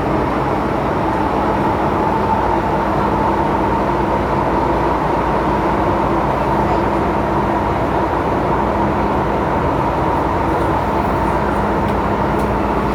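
MTR M-train (Tsuen Wan line EMU) running at steady speed, heard from inside the car: an even rumble of wheels on rail with a level, steady high tone over it.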